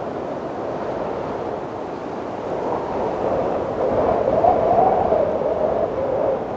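Wind blowing steadily in a rushing hiss, with a stronger gust about four seconds in that carries a wavering, whistling moan before easing off near the end.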